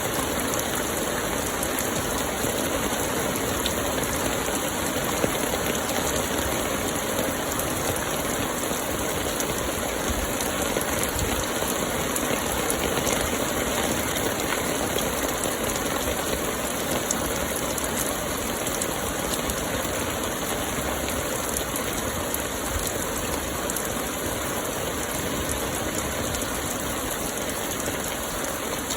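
Light rain falling steadily, with a dense patter of drops on surfaces.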